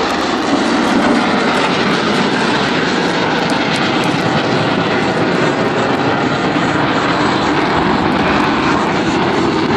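Steady, loud roar of the Blue Angels' F/A-18 Hornet jets flying by in formation.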